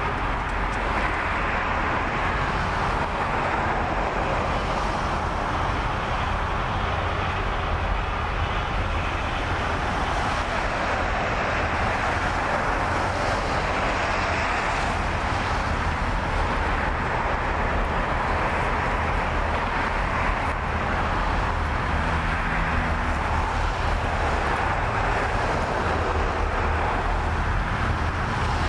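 Steady rumble and hiss of a diesel-hauled coal train approaching slowly, its locomotive still some way off.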